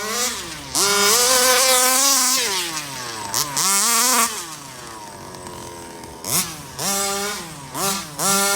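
Rovan 34cc two-stroke engine of a 1/5-scale Baja RC car, brand new on its first run, revving hard: a long full-throttle run about a second in, a falling idle, another rev, then three short throttle blips near the end.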